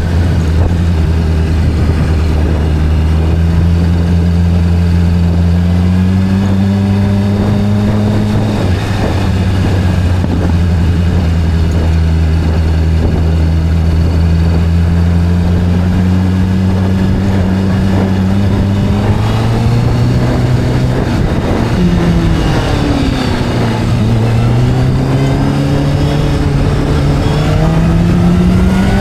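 Motorcycle engine running at a steady cruise, its pitch creeping up, then dropping as it eases off about two-thirds of the way through and climbing again near the end.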